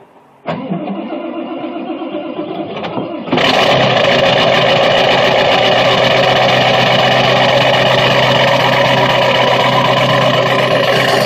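1999 7.3 Power Stroke turbo V8 diesel cold start through a 4-inch exhaust stack. The starter cranks for about three seconds, then the engine catches and settles into a loud, steady run.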